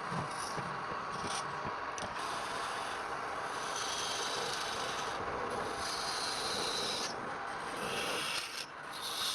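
Continuous rough rubbing of a tool on wood, with short higher scraping streaks now and then.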